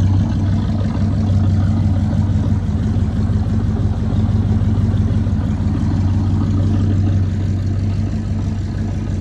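1979 Chevrolet Monte Carlo engine idling steadily on its own after a cold start, a little quieter near the end.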